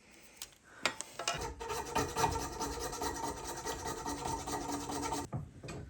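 Rasping, rubbing sound of a tool working against material, with a steady hum under it. It starts about a second and a half in and cuts off suddenly near the end.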